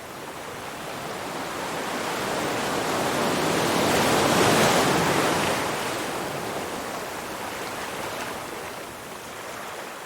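Ocean surf: a wave builds up to a loud break about halfway through, then washes back out, with smaller swells near the end.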